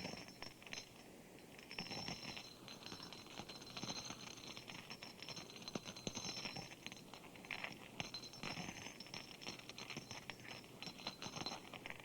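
Faint, irregular crackling and rustling clicks, with a thin high trill that comes and goes, part of a spooky sound-effects track.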